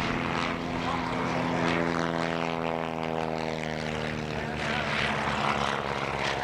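Piston engine and propeller of a WWI Fokker fighter plane droning in flight. Its pitch drops slightly a few seconds in as it passes by.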